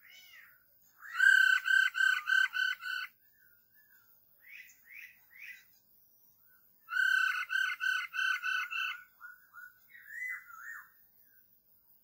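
Bird calls: two loud bursts of about seven evenly repeated notes each, one about a second in and one about seven seconds in, with softer single rising calls between and after them.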